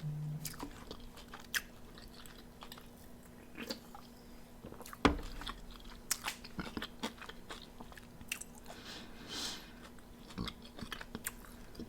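Someone biting and chewing crispy fried chicken wings close to the microphone: scattered sharp crunches and smacks, the loudest about five seconds in.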